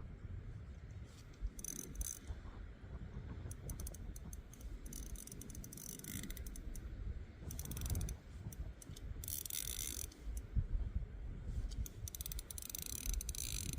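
Fishing reel clicking in bursts of fast ratchet clicks while a hooked fish is played, over a low rumble of wind on the microphone.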